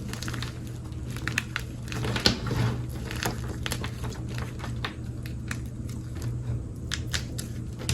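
Reformed gym chalk being crushed and crumbled, giving a run of sharp, crackly crunches, the loudest about two seconds in, over a low steady hum.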